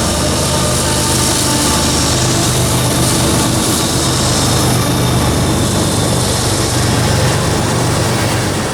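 Diesel locomotives of a passing freight train running steadily under load, a low engine hum beneath a broad rushing noise of the train, fading away near the end.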